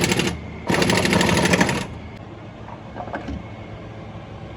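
Pneumatic impact wrench rattling in two short bursts, one cutting off just after the start and the other lasting about a second, followed by a few faint metal clinks.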